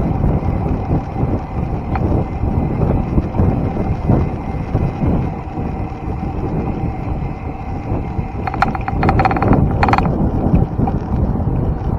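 Wind buffeting the microphone of a camera carried on a moving bicycle, a steady low rumble. A short run of rapid clicks about eight and a half seconds in, lasting about a second and a half.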